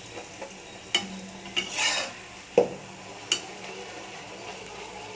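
Metal utensil stirring and scraping in a frying pan, with a few clicks and one sharp knock against the pan, over a faint steady sizzle of frying.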